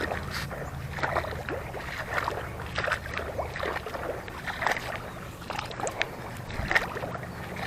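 Water splashing and sloshing in irregular short splashes, as a trap is handled and pulled up out of shallow water, over a steady low rumble.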